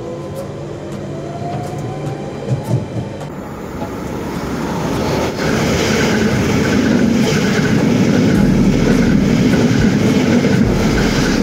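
A Central line tube train pulls away, its traction motor whine rising in pitch. About three seconds in, this gives way to an Elizabeth line Class 345 train passing a platform at speed: a loud, steady rush of wheel and rail noise that builds over a couple of seconds.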